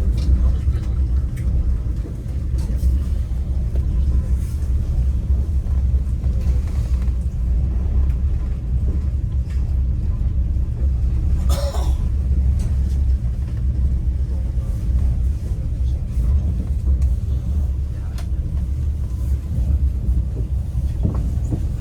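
Passenger train carriage in motion, its running noise a steady low rumble heard from inside the carriage. A brief higher, wavering sound stands out about halfway through.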